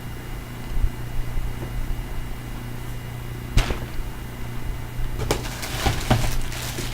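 Clothes and plastic packaging being handled: one sharp tap about three and a half seconds in, then several short crinkling rustles of plastic wrapping near the end, over a steady low hum.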